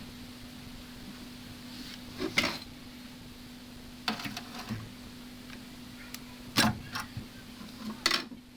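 Sharp clicks and taps of a small screwdriver and metal hot staples being worked into a cracked plastic motorcycle fairing panel, in four short clusters, over a steady low hum.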